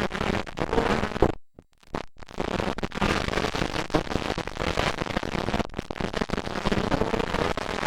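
Motocross dirt bike engines running hard, a dense crackling, popping racket. The sound cuts out completely for about half a second near the start.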